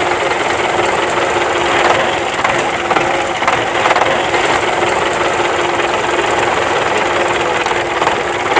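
Small motor of a homemade model water pump running steadily, a dense mechanical rattle with a constant hum; it cuts off suddenly at the end.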